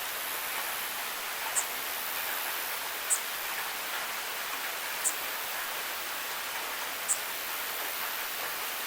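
Steady rain falling, an even hiss, with a short high click about every two seconds, four times.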